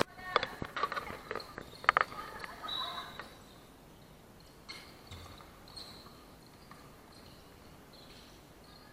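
Basketball game on an indoor court: a quick series of sharp thuds and short squeaks mixed with brief shouts in the first three seconds, then only faint scattered court noise.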